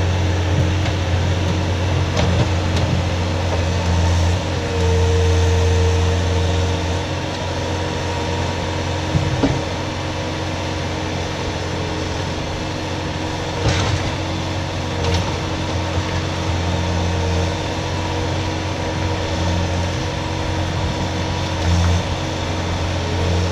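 Skid steer's engine running steadily under varying load, with a higher hydraulic-type whine that comes and goes and a few sharp knocks, around 9 and 14 seconds in.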